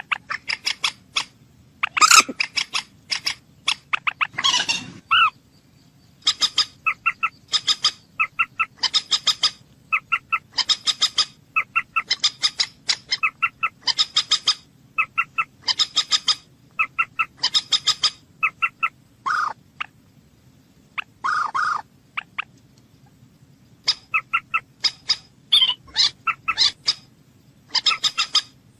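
A bird calling over and over in short phrases of quick clicking notes, about one phrase a second, with a few longer harsh calls in between.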